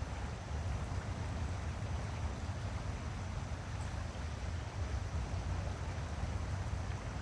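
Steady outdoor rushing noise with a heavy, unbroken low rumble and no separate events.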